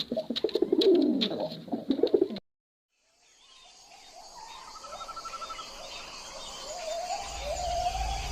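Pigeons cooing in repeated falling calls, with scattered clicks, cutting off about two and a half seconds in. After a short silence, birds chirping fade in, with higher calls near the end.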